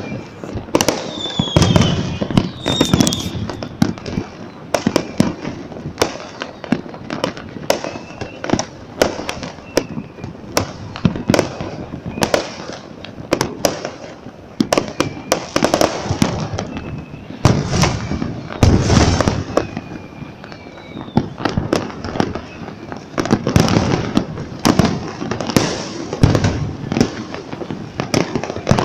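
A fireworks display: a dense, continuous barrage of bangs and cracks from bursting shells, with a few thin whistles gliding in pitch among them.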